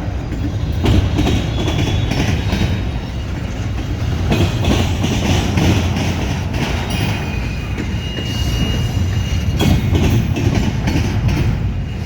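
Double-stack container cars of a CSX freight train rolling past, a steady rumble with repeated clicks of wheels over rail joints and short, thin squeals from the wheels now and then.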